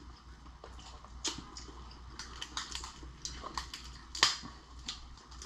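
Scattered sharp clicks and cracks of a cooked lobster being pulled apart and eaten, the loudest crack about four seconds in.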